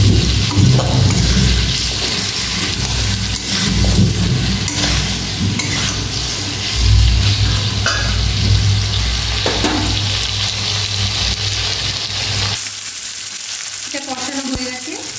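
Chicken, tomato and onion pieces sizzling in a metal kadai while a metal spatula stirs and scrapes them around the pan, frying the masala-coated mix down. About three quarters of the way through, the stirring and a low rumble stop suddenly, leaving the steady sizzle.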